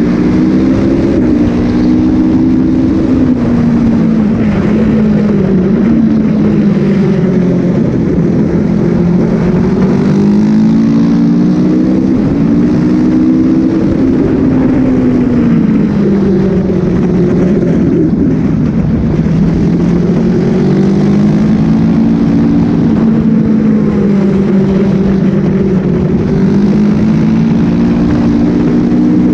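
Sport motorcycle engine at racing speed, heard from the bike itself, its pitch rising and falling again and again as it accelerates, shifts gear and slows for corners, with a steady rush of wind on the microphone.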